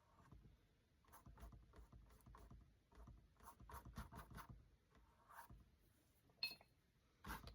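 Faint, irregular scratchy strokes of a paintbrush spreading acrylic paint across a canvas, with a light tap or two near the end.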